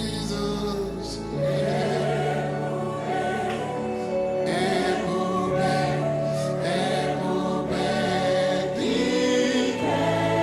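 Gospel worship music: voices singing over held chords, with the bass chord changing about a second and a half in and again near the end.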